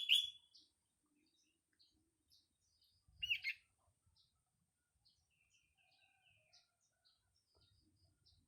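Sooty-headed bulbul (kutilang) calling: a loud burst of call notes right at the start and another about three seconds in, with fainter chirps scattered in between.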